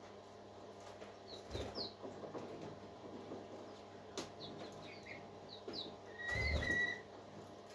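Pet parakeets chirping: scattered short, falling chirps, then one longer whistled call a little after six seconds in, with a soft thump under it.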